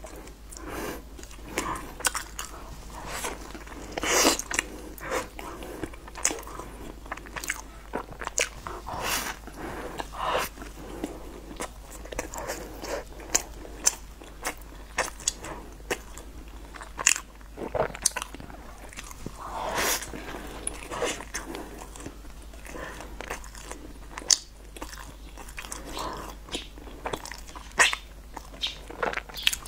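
Close-miked chewing and crunching of a crumbly chocolate-topped pastry: irregular crisp crackles and mouth clicks, with a louder crunchy bite every few seconds.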